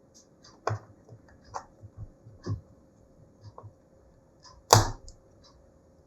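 Scattered clicks and light knocks of tools and laptop parts being handled during reassembly, with one sharper, louder knock near the end.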